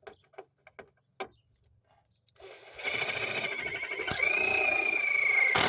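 A few light handling clicks, then a power drill runs and bores a hole from about two and a half seconds in. Its motor whine steps up in pitch partway through and then slowly sags as the bit bites.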